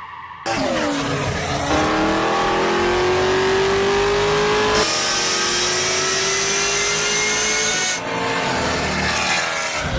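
Car engine accelerating hard, its pitch climbing steadily, dropping at a gear change about five seconds in, then climbing again. The sound changes abruptly a few times, as if separate takes are cut together.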